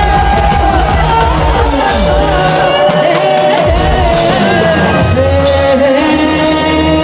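A Bengali folk song, sung with instrumental backing: one voice carries a gliding melody over a steady bass.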